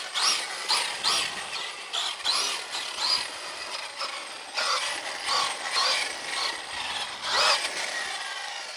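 1/5-scale electric RC truck's Lehner 3080 brushless motor and drivetrain whining in short bursts that rise and fall in pitch, about two a second, as it is throttled hard on and off.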